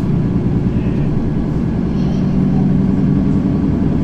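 Mercedes-Benz Citaro facelift city bus driving, its diesel engine and drivetrain running steadily with a low drone, heard from on board. The engine note strengthens about two seconds in.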